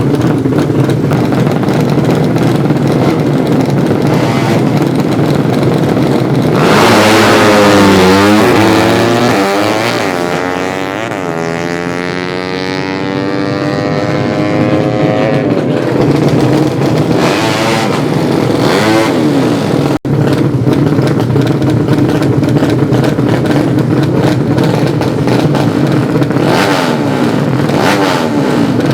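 Engines of 200cc underbone drag-racing motorcycles revving hard. About seven seconds in, one runs at full revs, then its pitch falls and it fades over several seconds, and more engines rev after it. The sound cuts out for an instant about twenty seconds in.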